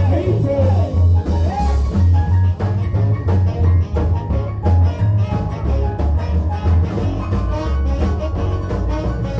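Live band music recorded on a mobile phone: a loud, prominent bass line under regular drum hits, in a ska/swing-like groove.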